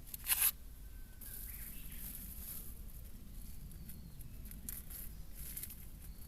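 Plastic film wrapper of a convenience-store rice ball crinkling as it is opened: a sharp rustle just after the start, then softer rustles.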